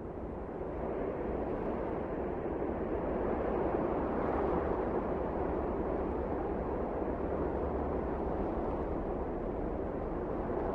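Wind of a snowstorm blowing in a steady rush that swells over the first few seconds, then holds.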